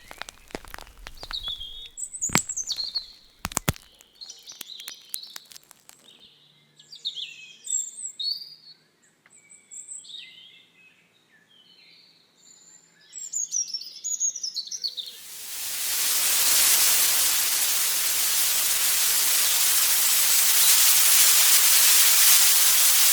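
Small birds chirping and singing in quick high calls, with a few sharp clicks in the first few seconds. About two-thirds of the way through, a loud, steady hiss fades in and covers the birds.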